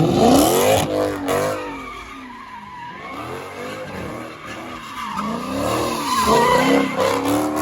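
A car engine revving hard, its pitch sweeping up sharply at the start and then rising and falling again and again, over a steady tyre squeal from wheelspin, as in a burnout or donut.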